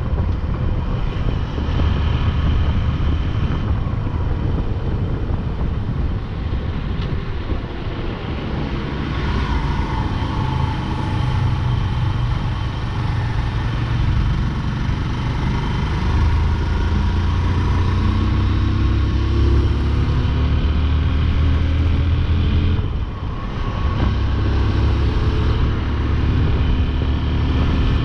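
Motorcycle engine running under way, with road and wind rush; its pitch climbs as it accelerates. Late on, the sound dips briefly, then the pitch climbs again.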